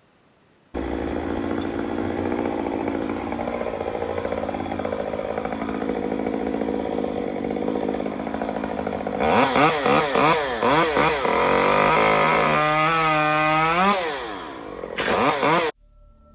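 Chainsaw running, its engine revved up and down repeatedly from about nine seconds in, starting and cutting off abruptly.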